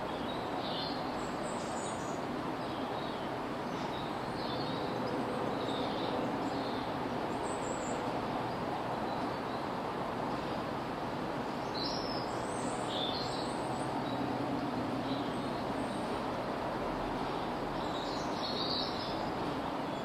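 Faint, short, high bird chirps, a few at a time at irregular intervals, over a steady hum of distant traffic.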